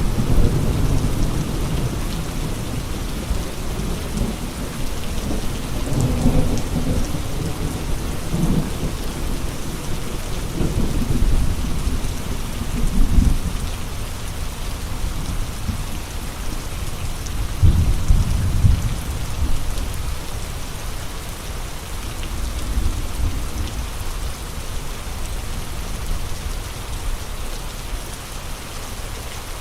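Steady rain with strong gusting wind. Low rumbling swells rise and fall several times, loudest about 13 and 18 seconds in.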